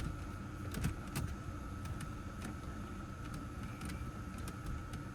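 Scattered light clicks and taps of parts being handled and fitted inside a car, over a steady low hum and a faint steady high tone.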